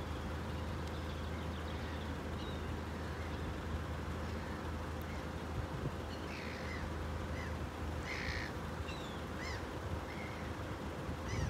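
Birds calling in short chirps over a steady low rumble and a faint constant tone, with the calls coming more often in the second half.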